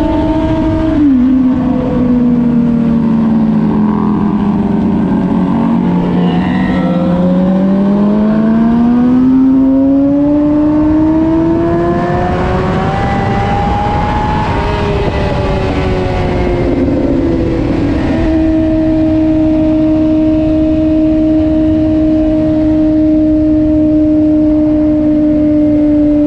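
Motorcycle engine running on the move. Its pitch drops about a second in and sinks as it slows, climbs steadily as it speeds up again, then holds an even pitch for the last several seconds, over a steady rush of noise.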